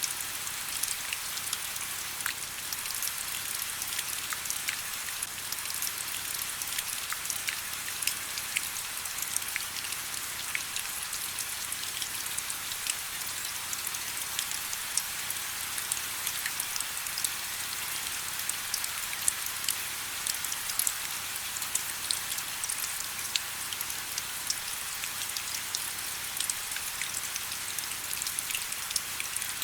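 Steady rain: an even hiss of falling rain, dense with small, sharp drop ticks.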